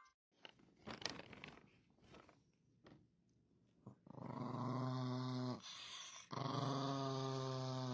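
Dog growling: two long, steady growls, the first starting about four seconds in and the second just after a short break. Before them there are only faint scattered clicks.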